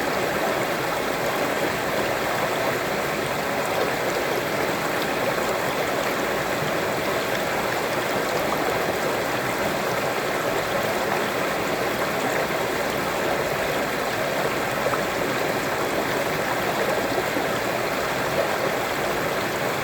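Water of a waterfall rushing steadily over stones, an even continuous splashing with no music or voices.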